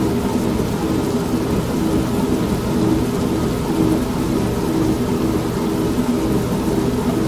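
An old manual washing machine runs with a steady low rumble and hum, layered with falling rain and thunder.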